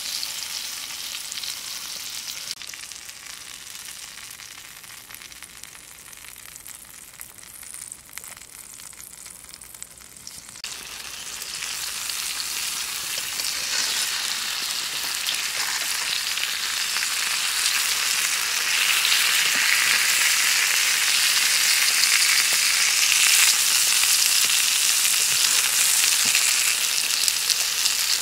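Eggplant slices sizzling in oil in a cast-iron pan over a wood fire. The sizzle dies down for several seconds, then swells back from about ten seconds in as the slices are turned onto a fresh side, growing loudest near the end, with a metal spatula now and then scraping and pressing on the pan.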